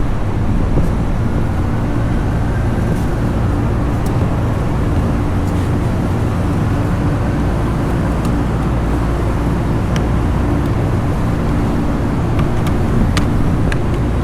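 Steady mechanical drone with a constant low hum, typical of rooftop ventilation machinery running, with a few faint clicks.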